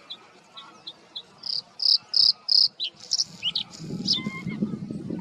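Male bluethroat singing: a run of short, high ticking notes that speed up, then four loud ringing notes and a varied phrase of quick gliding notes. Near the end a low, rough sound comes in underneath.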